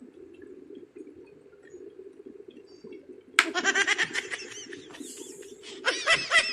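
Electric kettle at the boil with a low steady rumble. About halfway in, a sudden sharp onset comes as the automatic switch trips off, and a person breaks into startled high-pitched laughter.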